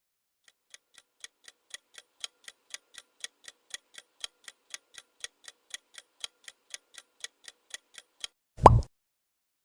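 Quiz countdown-timer sound effect: clock-like ticks at about four a second that grow louder over the first couple of seconds. Near the end comes one loud, short sound effect whose pitch drops sharply, marking the end of the answer time.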